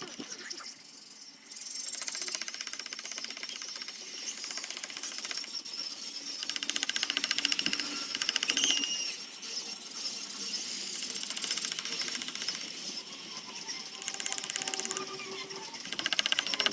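Small handheld power carving tool running with a rapid, even chatter as it cuts into wood, growing louder and softer as it is pressed on and eased off.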